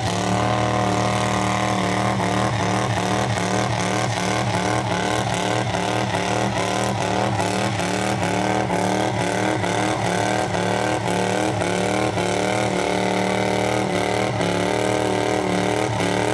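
Sears garden pulling tractor's Kohler Command V-twin running hard under load as it drags the weight sled down the track. The engine note holds steady, with a slight repeated waver in pitch.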